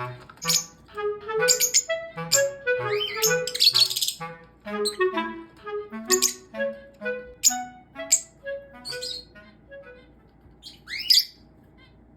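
Background music melody with a peach-faced lovebird's short, sharp chirps over it; the music fades out about ten seconds in, and a lone up-and-down call follows near the end.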